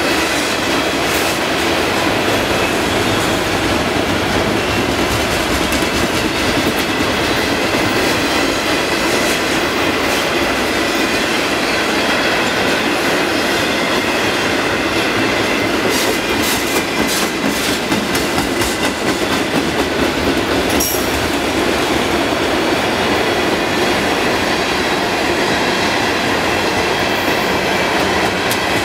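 Freight cars of a slow-rolling freight train passing close by: a steady rumble and rattle of steel wheels on the rails, with a few sharp clicks about two-thirds of the way through.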